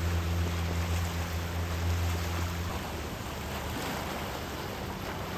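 Heavy rain falling steadily. A low steady hum sounds under it for the first half and stops about two and a half seconds in.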